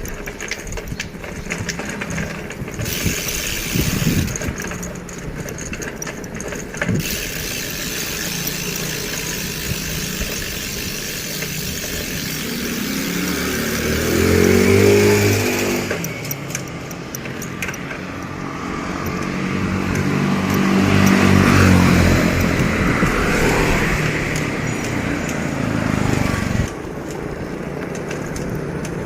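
Motor vehicles passing by on the road, two engines swelling and fading, one about halfway through and another soon after, over steady road and wind noise.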